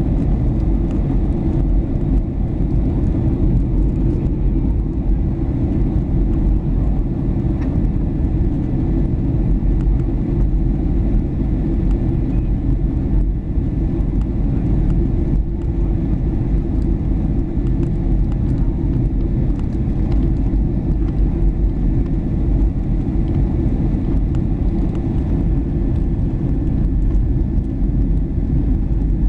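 Steady low rumble of a Boeing 737-800's CFM56 jet engines and the airflow around the fuselage, heard inside the passenger cabin in flight, with a faint thin steady tone above it.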